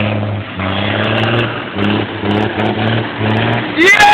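Deuce-and-a-half army truck's engine running under load, its drone swelling and dropping in short pulses. A loud, high rising tone cuts in right at the end.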